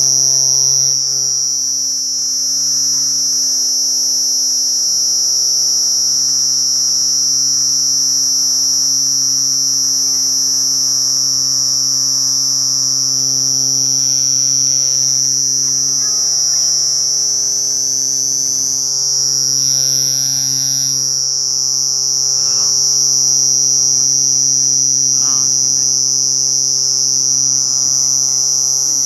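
Cricket trilling in one continuous high-pitched note, steady throughout, over a low steady electrical hum.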